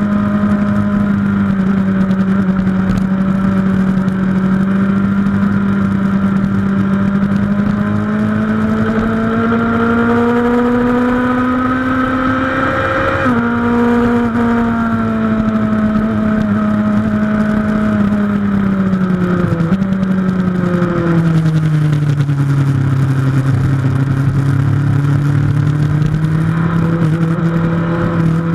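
Suzuki GSX-R1000 K2's inline-four engine heard on board at track speed. Its steady note climbs slowly under acceleration and dips sharply about halfway. It then sinks as the bike slows for a corner, and rises again near the end.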